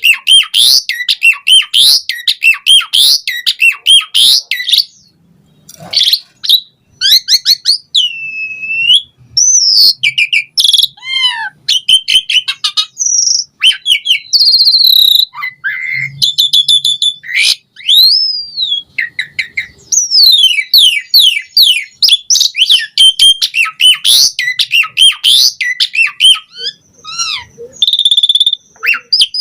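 Asian pied starling (jalak suren) singing a loud, varied song: fast runs of repeated chirps mixed with rising and falling whistles and a few harsh notes, broken by short pauses.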